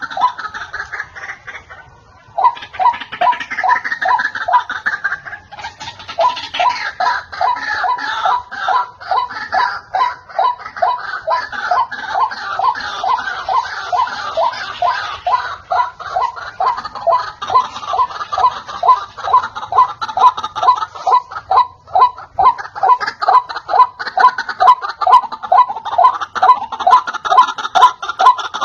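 White-breasted waterhen calling, a long run of rapid, repeated harsh notes at about three to four a second, broken briefly twice.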